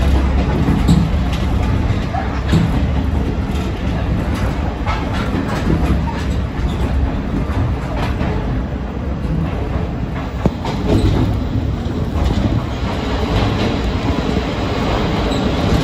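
Kominato Railway diesel railcar running along the line, heard from inside the front of the train: a steady rumble of engine and wheels, with rail-joint clicks and one sharp click about ten and a half seconds in.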